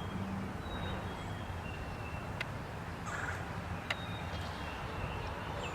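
Outdoor yard ambience: a few short, faint bird calls over a steady low background hum, with two light clicks.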